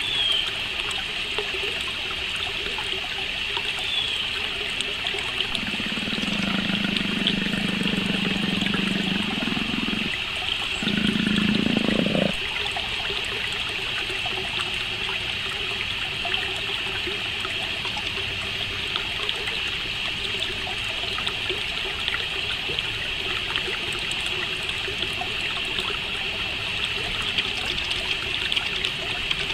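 Steady, dense chorus of chirping crickets, with a couple of faint bird chirps near the start. A low hum comes in about six seconds in and stops about twelve seconds in.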